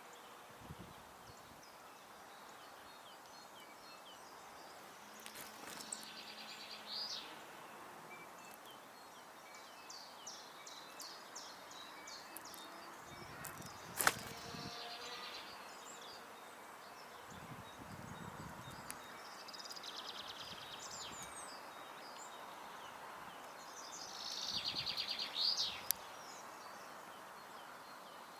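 Garden songbirds singing in short, high chirping and trilling phrases at intervals, the loudest burst near the end. A single sharp tap comes about halfway through.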